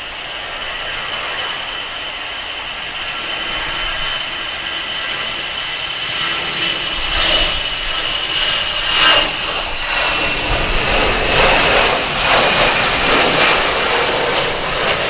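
Jet engines of a cargo airliner running: a steady high whine over a rushing noise, growing louder, with a rougher rumble joining about halfway through.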